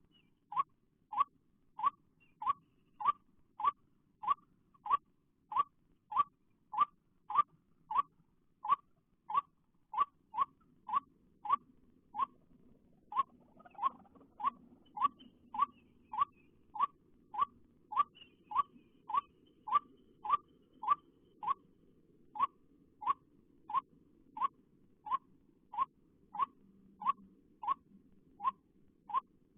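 White-breasted waterhen call, a short rising note repeated in a strict, even rhythm of about one and a half notes a second, with a brief break about twelve seconds in: the lure call used to draw waterhens to the trap.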